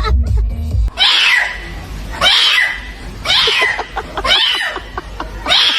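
Music with a heavy beat, cut off a little under a second in by a kitten mewing: five short, high calls, each falling in pitch, about one a second.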